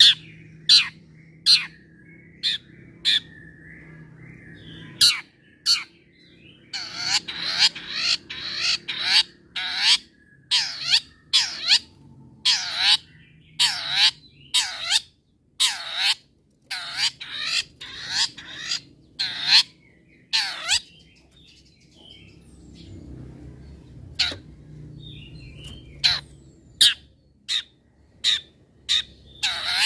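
Long-tailed shrike (cendet) calling in a fast run of short, harsh, scratchy notes, about two a second through the middle, sparser and with softer twittering before and after.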